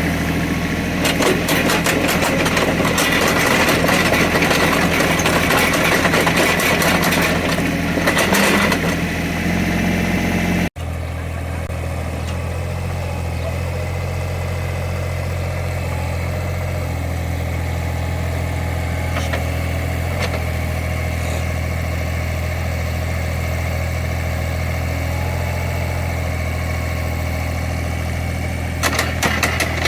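Small CAT excavator's diesel engine running under load with clanking and scraping for about ten seconds. After an abrupt break it runs steadier and quieter, and the clatter picks up again near the end.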